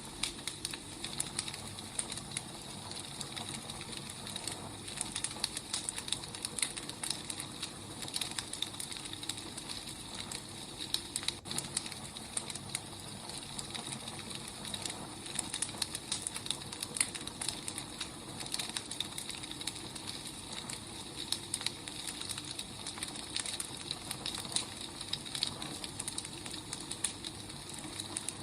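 Wood fire burning: a steady hiss with frequent small crackles and pops throughout.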